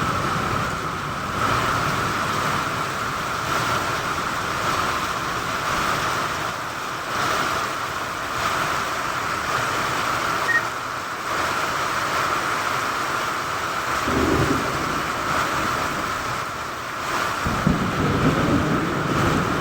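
Steady rain falling, with low rumbles of thunder about two-thirds of the way through and again near the end.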